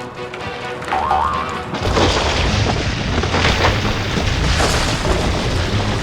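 Cartoon music, then about two seconds in a sudden loud boom, a sound effect like an explosion, which carries on as a rumbling noise.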